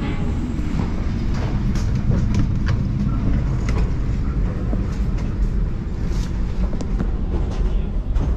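Gajayana executive passenger train running, heard from inside the carriage: a steady low rumble with scattered light clicks and knocks.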